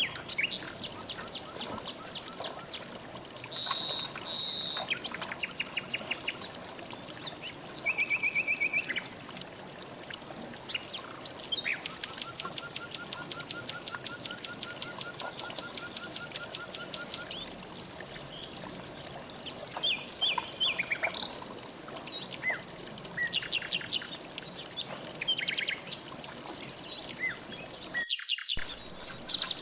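Several songbirds calling and singing rapid trills over the steady rush of flowing river water. One long even trill runs for about five seconds midway. The sound cuts out for a split second near the end.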